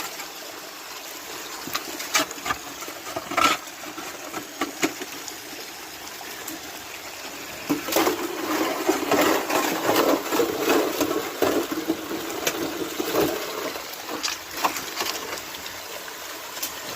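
Water splashing and sloshing as plant roots are rinsed by hand in stream water to wash out trapped gold, with scattered sharp clicks and knocks. The splashing gets heavier and louder from about halfway through, then eases near the end.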